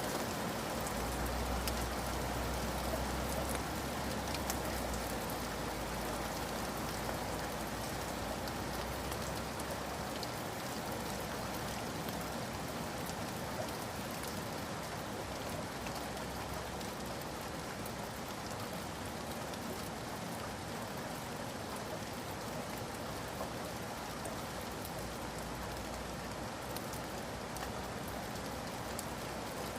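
Steady rain falling and pattering on surfaces, an even continuous hiss of drops. A low rumble sits under it from about a second in until about five seconds.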